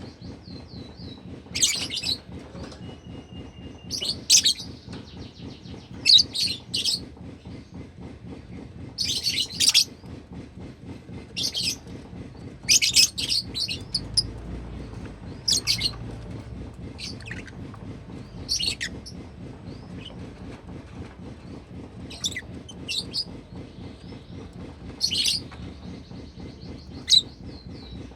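Pet lovebird giving short, sharp, high-pitched chirps in quick clusters, repeated every second or two over a faint low hum.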